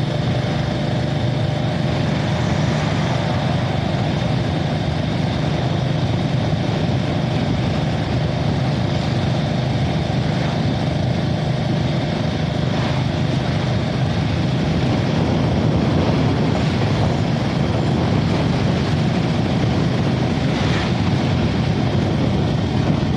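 Motorcycle running at a steady speed while being ridden, its engine and road noise holding level throughout.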